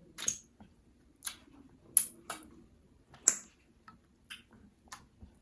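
Close-miked wet eating sounds: about seven sharp, sticky smacks and clicks at irregular intervals from someone chewing pounded yam with slimy ogbono and egusi soup.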